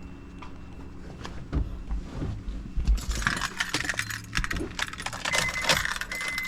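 Car keys jingling and clinking as they are handled, starting about halfway through. Near the end a high electronic beep sounds on and off.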